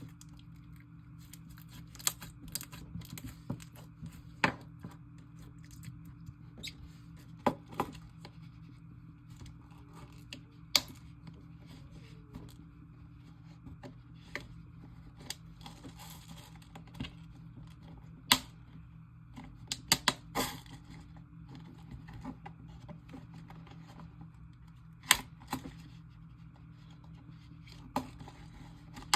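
Glossy slime being mixed together with soft clay, giving irregular sharp clicks and pops at uneven intervals, over a faint steady low hum.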